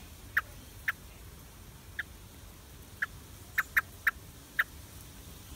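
A bird's short, sharp chirps, about eight single notes at uneven intervals, some in quick succession.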